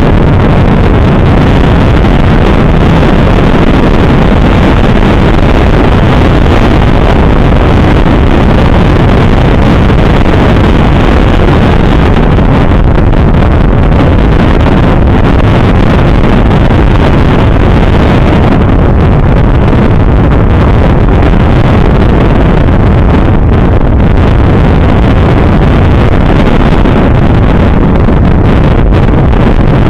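Steady, loud wind rushing over the microphone of a moving motorcycle, with the bike's engine and road noise underneath.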